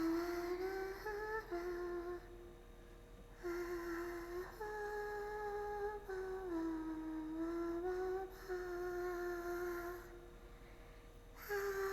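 A woman humming a slow tune in long held notes that glide gently in pitch, pausing twice for about a second.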